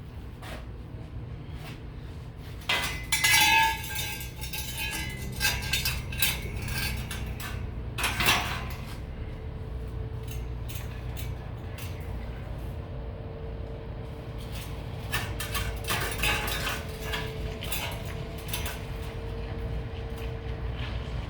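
Pieces of scrap metal clinking and clanking as they are handled, some with a short metallic ring, with a dense flurry about three seconds in and another past the middle. A steady low hum runs underneath.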